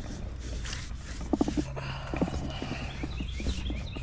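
A few short knocks and clatter of tools being handled, over a steady low hum, with a bird chirping in short repeated falling notes near the end.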